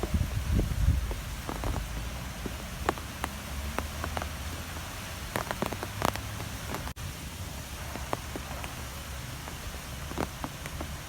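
Strong wind gusting, with a low rumble and scattered sharp ticks and patters over a steady rushing. The sound cuts out for an instant about seven seconds in.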